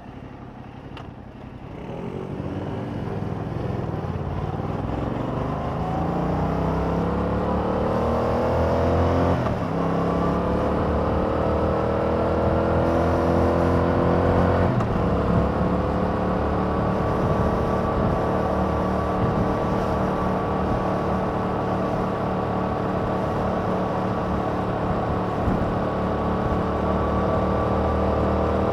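2021 Yamaha MT-07's parallel-twin engine through its stock exhaust, pulling hard from low revs about two seconds in. The pitch climbs, drops at an upshift, climbs again to a second upshift, then settles into a steady cruise.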